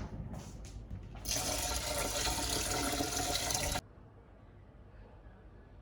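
A kitchen tap runs for about two and a half seconds, then is shut off suddenly. A few light clicks come just before it.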